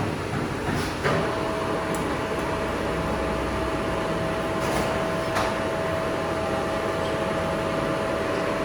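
Metal lathe at work: steady machine noise, with a steady whining tone that sets in with a click about a second in.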